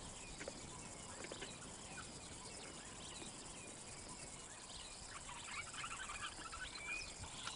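Faint outdoor ambience with scattered short bird chirps and calls, growing busier in the second half.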